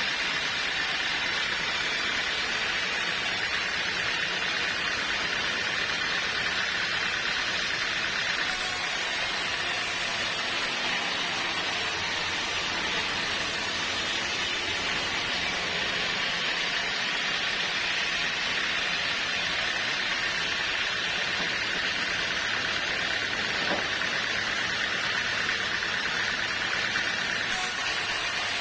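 Sawmill machinery running: a steady, unbroken mechanical noise, strongest in the upper-middle range.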